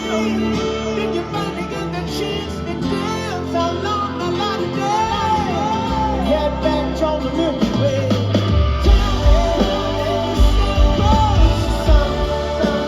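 A rock band playing live in a large hall, with sung melody lines over guitar and keyboards; the bass and drums come in hard about nine seconds in.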